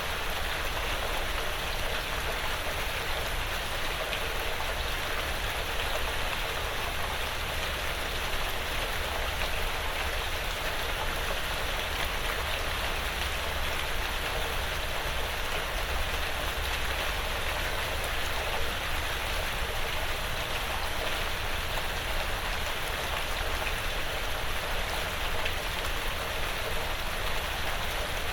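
Steady rain falling on a porch roof and the surrounding woods, a continuous hiss of drops with faint scattered ticks.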